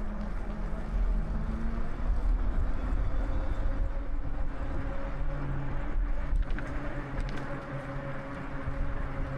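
Steady low rumble of motor-vehicle engines, with a few held drones.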